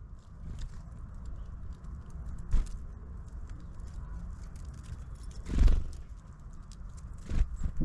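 Activity at a garden bird feeder: light scattered tapping and three dull thumps, about two and a half, five and a half and seven and a half seconds in, over a steady low rumble of wind on the microphone.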